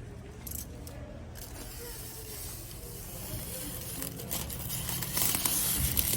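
Adhesive window tint film being peeled off car glass: a tearing hiss that grows louder over the last two seconds, over a low steady background hum.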